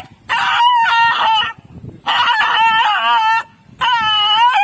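Dog stuck in mud crying in distress: three long, high, wavering howls in a row.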